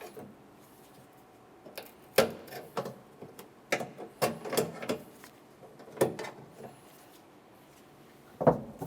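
Green plastic rod clips on a Ford Explorer Sport Trac tailgate latch being pried open with a pick and the latch rods lifted free: a string of sharp clicks and small knocks, about eight, spread irregularly with short pauses between them.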